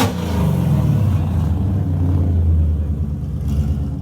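Ford Mustang GT's Coyote 5.0 V8 exhaust dropping back from a rev in the first moment, then running at a steady low rumble.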